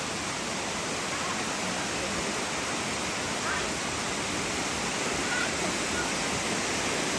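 Waterfall rushing in a steady, even roar, with faint distant voices now and then.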